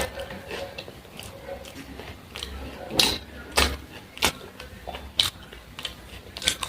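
Close-miked eating: chewing and biting food, with several sharp crunchy clicks spaced irregularly over the last few seconds.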